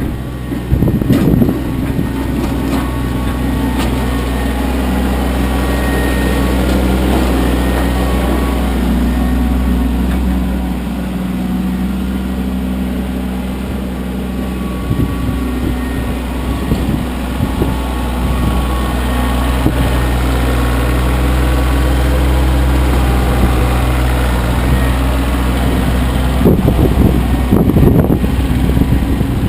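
Kioti CK25 compact tractor's three-cylinder diesel engine running steadily while plowing snow. There is irregular low clatter about halfway through and again near the end.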